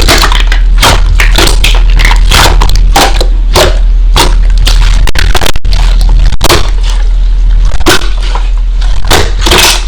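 Slime being pressed and squished by hand, a dense run of crackling clicks and pops.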